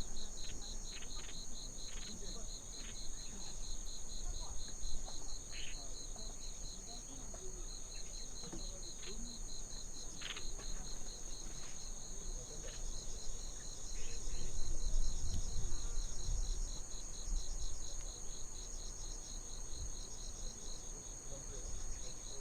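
Insects singing in the grass: a steady high trill over a fast, pulsing chirp that runs on without a break. A low rumble swells for a few seconds past the middle.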